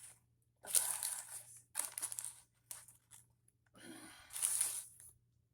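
Paper food wrapping crinkling and tearing close to the microphone, in four separate bursts.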